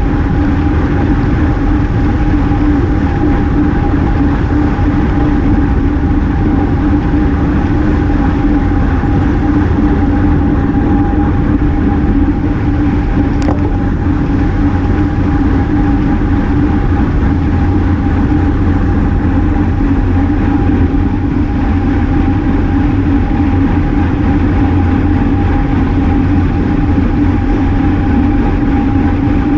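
Steady wind and road rush on a GoPro carried on a racing bicycle at speed, with a constant hum running under it. A single brief click about halfway through.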